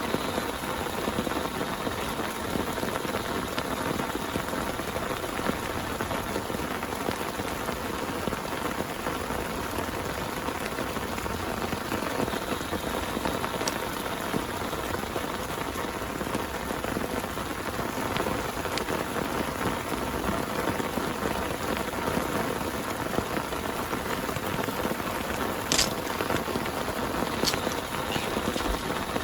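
Heavy rain falling steadily, with a few sharper single drop hits near the end.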